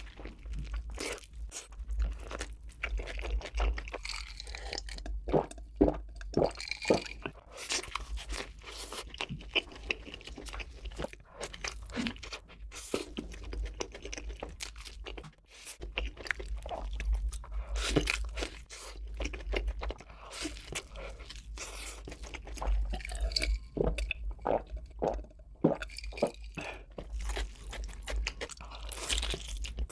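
Close-miked crunching and chewing of crunchy food: irregular sharp crunches from repeated bites and chews, with short pauses between mouthfuls.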